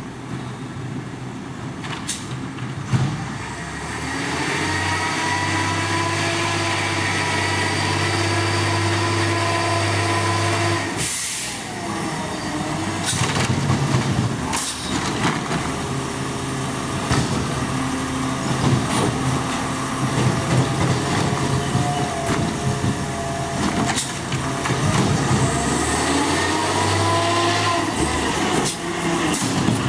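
Garbage truck's diesel engine revving up and holding high twice, as it does when powering the packer or arm hydraulics, with a sharp burst of hiss about eleven seconds in and scattered metal knocks and clanks.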